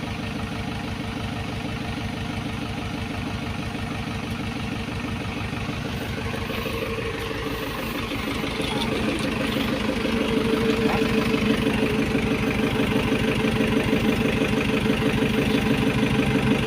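Komatsu PC75 excavator's diesel engine running steadily, getting louder about halfway through.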